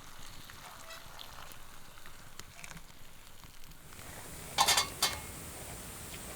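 A bird calling twice in quick succession, two short loud calls about half a second apart, over faint steady background noise.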